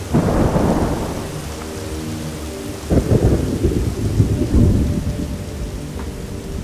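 Two rolls of thunder over steady rain: one cracks right at the start and fades over about a second and a half, and a second starts about three seconds in and rumbles on for a couple of seconds.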